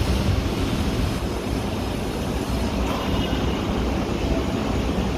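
Metro rail train running, a steady low rumble with an even hiss over it.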